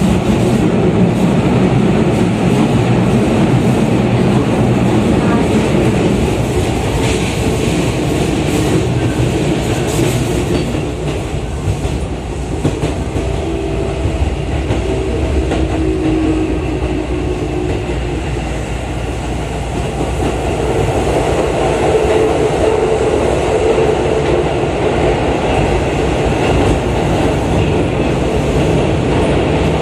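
Running noise inside a Keisei 3700 series electric train car: a steady rumble of wheels on rail, with clicks over rail joints. About halfway through, the train runs into a tunnel.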